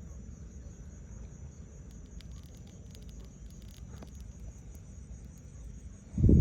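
Steady high insect trilling, like crickets, over a low rumble, with a few faint ticks in the middle and a short, loud, low thump near the end.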